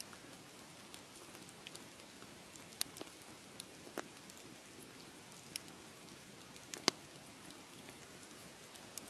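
Wood fire crackling in a fireplace: a steady soft hiss with scattered sharp pops, the loudest about seven seconds in.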